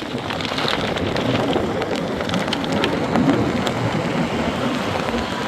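Heavy plastic sheeting crackling and rustling steadily, with many small sharp crackles through a dense rain-like noise.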